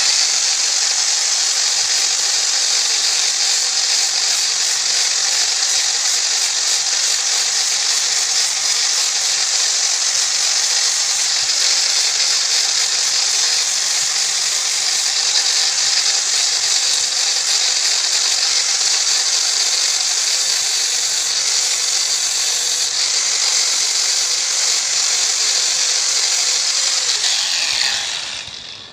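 Handheld power tool running steadily at speed, then switched off near the end, its pitch falling as it spins down.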